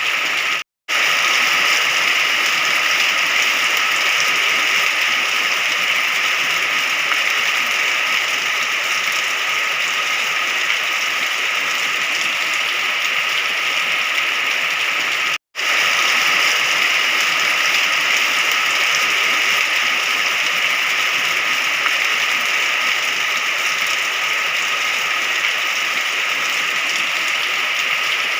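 Rain falling steadily, a dense even hiss with no thunder, broken by two brief silent gaps: one just under a second in and one about halfway through.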